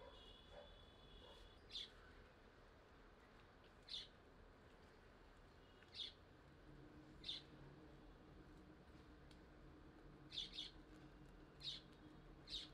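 Near silence broken by faint, short bird chirps every second or two, a few of them in quick pairs near the end.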